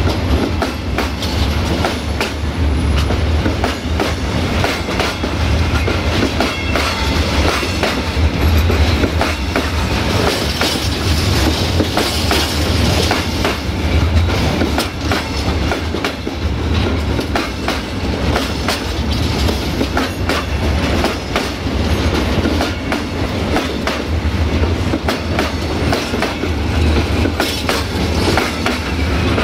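Freight train of hopper wagons rolling past close by: a steady heavy rumble with the wheels knocking and clattering over the rail joints.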